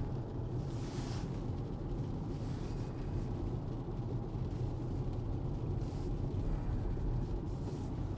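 Steady low road and tyre rumble heard inside the cabin of an electric Tesla on wet road, with three brief hissing swells.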